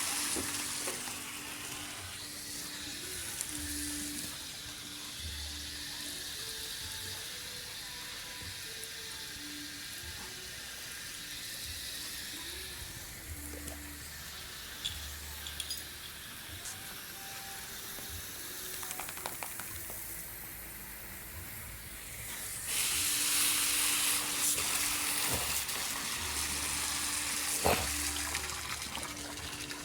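Steady rush of running water, getting clearly louder about three-quarters of the way through, with a few small knocks.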